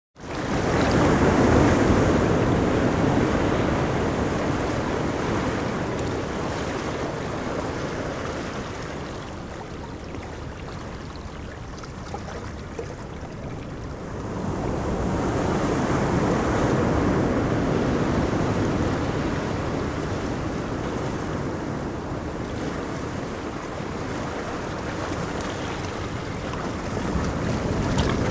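Ocean surf on a beach: waves break and wash up in slow surges, each swell building and then easing off over several seconds, with some wind.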